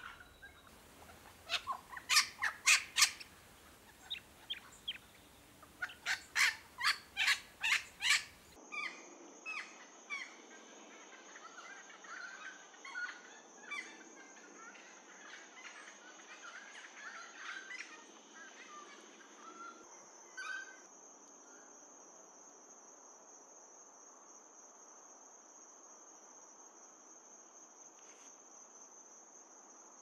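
Little Wattlebird giving two bursts of harsh, cackling notes. Then a Noisy Friarbird's chattering, cackling calls, fading out a little after twenty seconds, over a steady high insect trill that lasts to the end.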